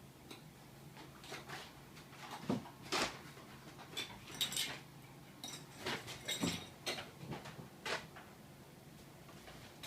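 Kittens playing with an empty paper takeout sack and plastic flatware: irregular crinkling and rustling with light plastic clicks and clatters, busiest in the middle of the stretch.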